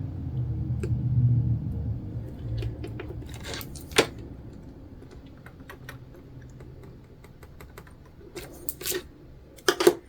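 Sewing materials being handled on a work table: scattered small clicks, taps and rustles, with one sharp click about four seconds in and a few more near the end.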